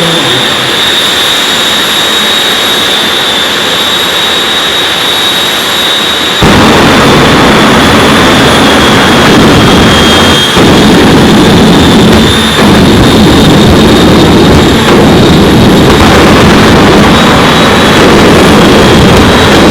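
Jet drag car's turbojet engine running with a steady high-pitched turbine whine over a rushing blast. About six seconds in it becomes abruptly louder and deeper, with a heavy rumble.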